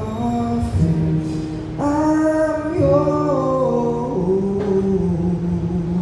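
Live song with singing: long sung notes, held and stepping up and down in pitch over the music.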